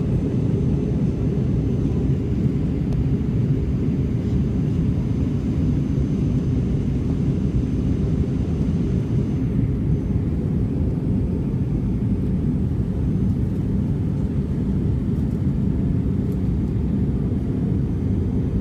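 Steady low rumble inside the cabin of an Airbus A320-211 in flight: engine and airflow noise.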